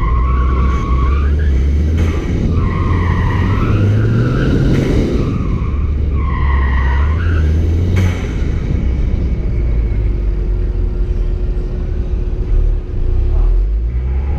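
2014 Ford Fiesta ST's turbocharged 1.6-litre four-cylinder running hard while its Falken Azenis tyres squeal in several bursts through autocross corners. After about eight seconds the squealing stops and the engine settles to a steadier, lower run.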